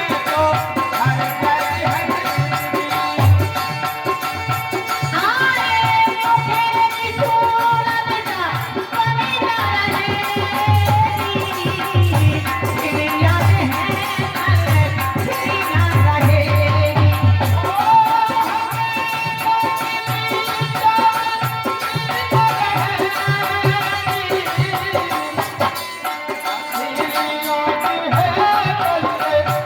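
Instrumental passage of Indian folk music: a gliding melodic lead over a steady drum beat, without sung words.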